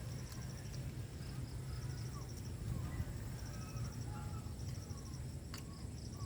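Rural outdoor ambience: insects chirping in short repeated high bursts, with faint bird chirps and a steady low rumble underneath.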